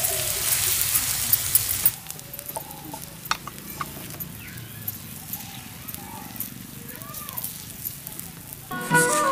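Vegetable batter sizzling in hot oil on a flat iron pan for about two seconds, then the sound drops suddenly to a much quieter background with faint scattered clicks. Music comes in near the end.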